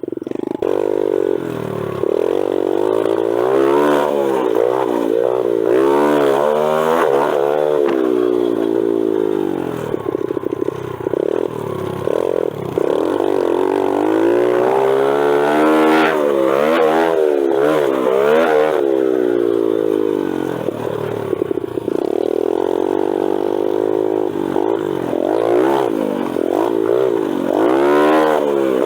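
Small single-cylinder four-stroke pit bike engine being ridden hard, its pitch climbing and dropping every second or two as the throttle is opened and closed and it shifts through the gears.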